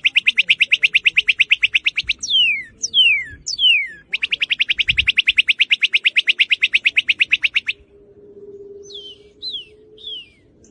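Northern cardinal singing: a loud, rapid trill of about a dozen notes a second, then three clear whistles sweeping down in pitch, then a second long trill. Near the end come a few fainter, shorter down-slurred notes.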